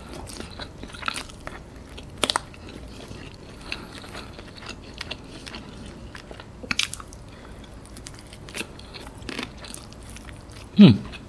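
A person chewing and biting fried chicken: scattered crunches of the fried coating and wet mouth sounds, with a short louder sound that falls in pitch near the end.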